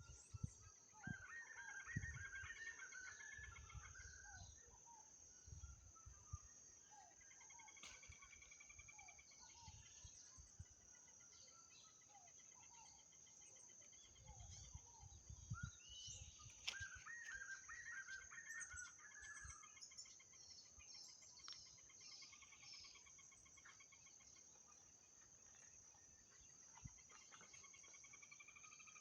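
White-eared puffbird (João-bobo) singing: rapid runs of bouncing, repeated notes that come in two louder bouts, about a second in and again around the middle, with longer trilled note series in between and toward the end. A steady high insect drone runs underneath, and there are a few low thumps.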